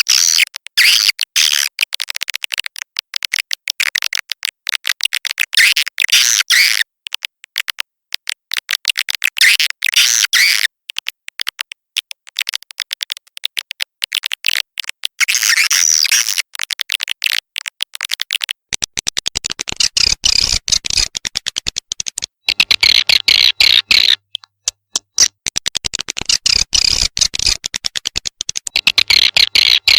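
Edible-nest swiftlet lure recording: rapid, dense twittering and clicking chirps of swiftlets, in phrases with short gaps, made to call the birds into a swiftlet house to nest. About two-thirds of the way through a fuller layer joins that reaches lower.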